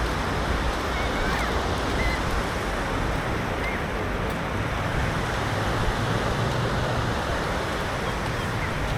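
Steady rush of sea surf on the shore mixed with wind, an even noise with no breaks.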